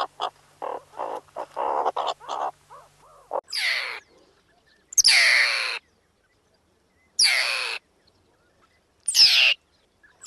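Bird calls: a quick run of short notes, then loud, harsh cries that fall in pitch, repeated about every two seconds.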